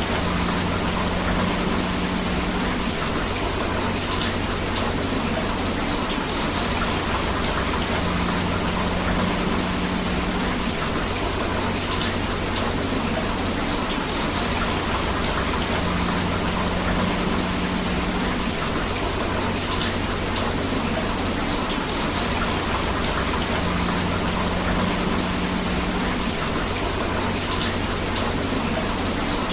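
Steady rain falling together with a river's rushing water, an even, unbroken hiss. A faint low hum swells in for a couple of seconds about every eight seconds.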